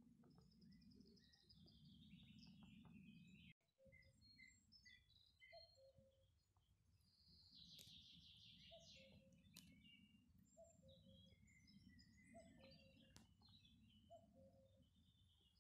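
Several birds singing and chirping, with a low two-note call, the second note lower, repeated about every second and a half from around five seconds in, over a steady low rumble.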